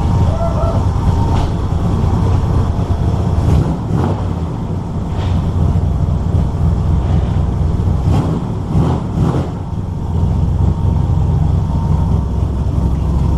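Chevrolet S10 pickup's engine running with a steady low rumble, with a few short knocks and clatters partway through.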